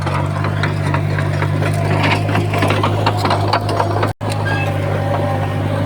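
Small Komatsu crawler bulldozer's diesel engine running under load with a steady low drone, over a dense clatter of tracks and scraping stone and soil. The sound cuts out for an instant a little past four seconds in.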